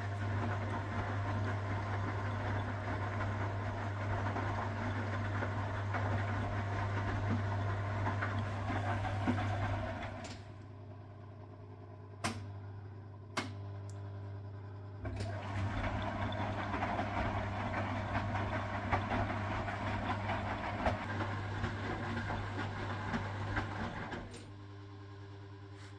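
1969 Zanker VA520 washing machine running, its Hanning gear motor and drum going for about ten seconds, then pausing with two sharp clicks, then running again for about nine seconds before stopping near the end. A steady low hum continues through the pauses.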